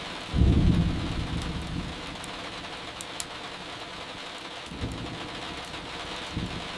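Steady rain with low thunder rumbles: a loud one about half a second in and a softer one near five seconds, with a few faint crackles of burning firewood.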